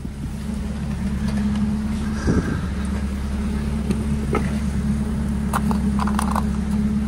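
Engine of a converted camper truck running steadily while it is driven, with a few light clicks over the hum.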